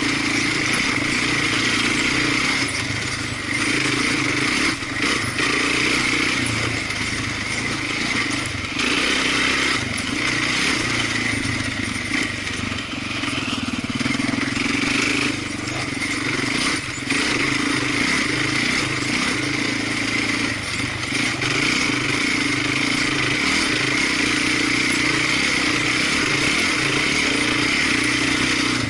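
Off-road vehicle engine running steadily while riding, with a constant drone and a wide rushing noise over it and only small dips in level.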